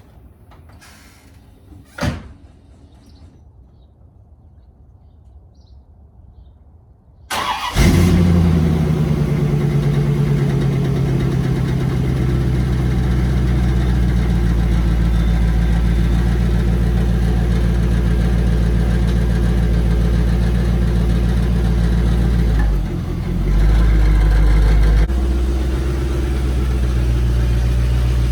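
A single sharp knock, then after a few quiet seconds the 1994 Chevrolet C4 Corvette's LT1 V8 cranks briefly and catches on a cold start, settling into a steady high idle. About two-thirds of the way through, the idle dips and swells briefly, then evens out again.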